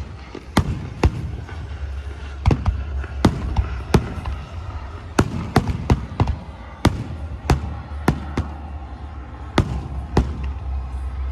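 Fireworks bursting overhead: a string of sharp, irregular bangs, about one or two a second, over a steady low rumble.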